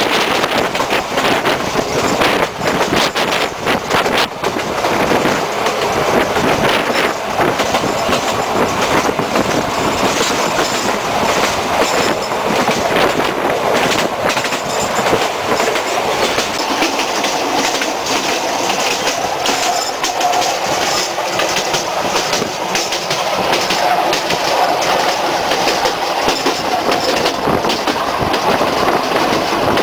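Sóller railway train's wooden carriage running along the narrow-gauge track: a steady rattle and clatter of wheels over the rails, with short faint squeals now and then in the second half.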